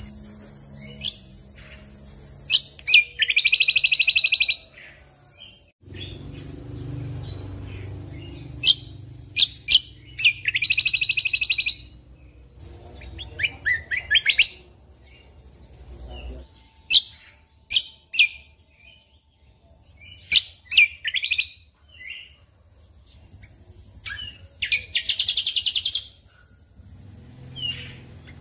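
Cucak kombo (kecial kombok) singing: several loud, rapid trills of about a second or two each, separated by sharp single chirps and short pauses.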